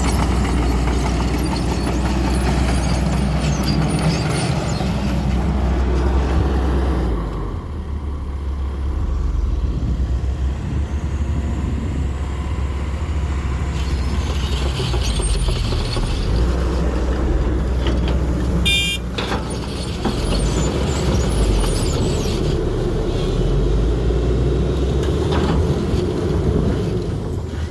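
Diesel engine of an XCMG 140 excavator, a Cummins, running under changing load: it eases off about a quarter of the way in, then picks up again about halfway through. A brief high-pitched squeal sounds about two-thirds of the way in.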